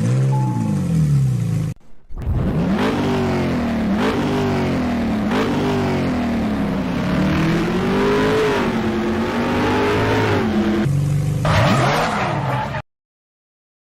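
Car engine revving up and down over and over, its pitch climbing and dropping about once a second. It breaks off briefly about two seconds in and stops abruptly near the end.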